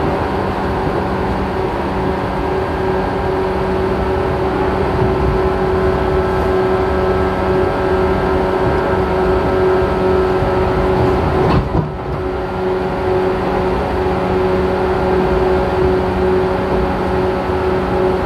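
Running sound inside the motor car of a JR Kyushu 415 series 1500-subseries electric multiple unit: traction motor and gear whine held at a steady pitch over the rumble of wheels on rail, the train cruising at a steady speed. About twelve seconds in there is a short knock and a brief dip in level.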